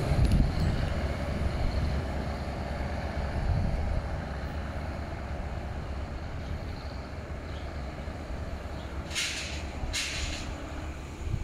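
Diesel railcar train pulling away and receding, its low engine and wheel rumble fading steadily into the distance. Two short hisses stand out about nine and ten seconds in.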